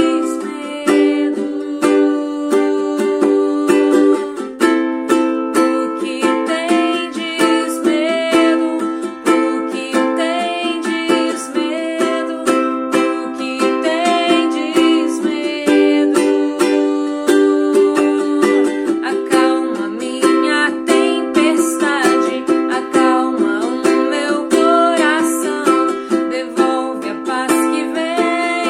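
Ukulele played instrumentally, picking out a melody over chords with a steady rhythm of plucked notes.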